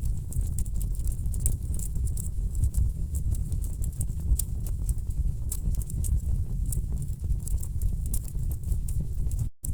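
Wood logs burning in a fireplace, with a steady low rumble and many sharp, irregular crackles and pops. The sound drops out for a split second just before the end.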